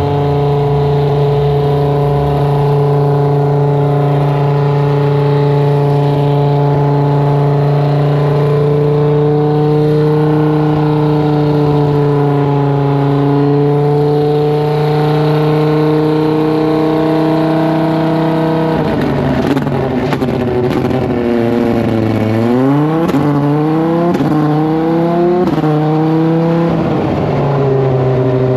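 Modified race car engine at a steady high idle during a pre-race tune-up, then revved several times in quick succession about two-thirds of the way in, each rev rising and falling, before settling back to idle near the end.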